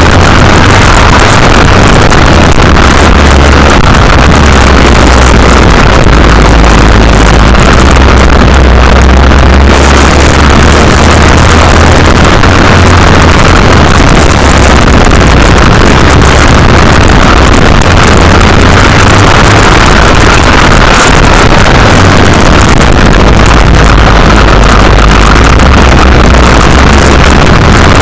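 Mini motocross bike engine running, its pitch shifting up and down, recorded so loud that it distorts, with heavy wind buffeting on the microphone.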